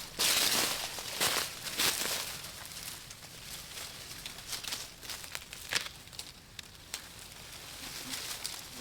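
Dry plant material rustling and crunching in irregular bursts, with scattered small crackles; loudest about a second in.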